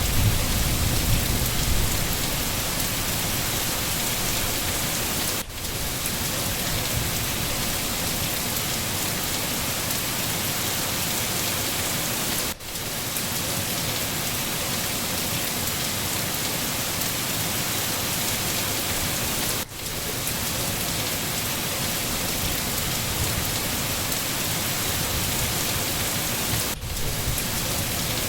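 Steady rain falling, an even hiss, with a low rumble of thunder dying away in the first two seconds. The sound dips briefly about every seven seconds.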